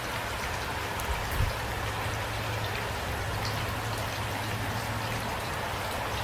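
Steady rain falling, with individual drops ticking through it and a steady low hum underneath. A brief low thump comes about a second and a half in.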